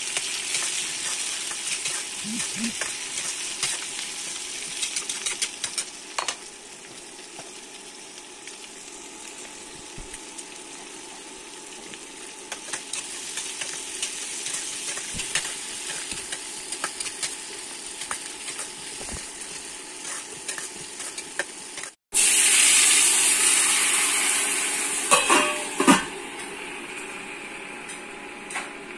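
Onions and green chillies sizzling as they fry in a nonstick kadai, with a spatula scraping and tapping against the pan as they are stirred. About two-thirds of the way through the sound cuts off and a louder, brighter sizzle starts abruptly, with a few clatters against the pan.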